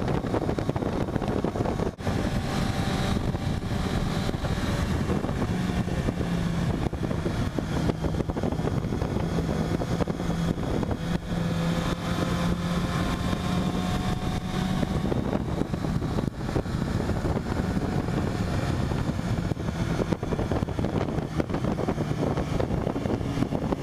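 Kawasaki Ninja ZX-6R 636 inline-four sportbike engine running at cruising speed, its note shifting slightly a few times, with wind rushing over the helmet-mounted microphone.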